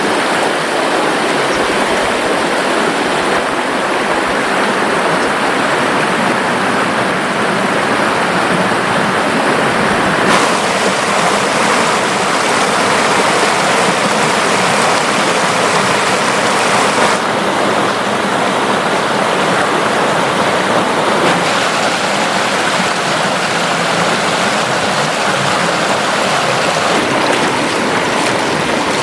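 River water rushing and splashing, a loud steady noise that changes in tone abruptly a few times.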